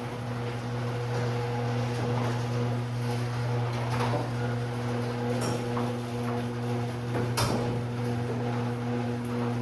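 1970s Sears garage door opener (model 139.655000) running, lifting the door with a steady buzzing hum and a few knocks and rattles from the door, the loudest about three quarters of the way through. The buzz is put down by the owner to a loose light lens held by only one tab.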